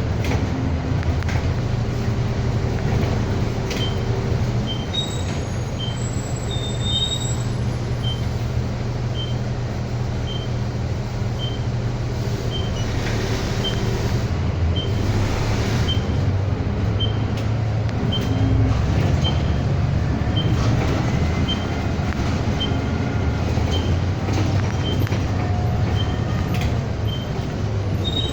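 Cabin noise inside a moving city bus: a steady engine drone and road rumble, with a light high-pitched tick repeating about every three-quarters of a second from about four seconds in.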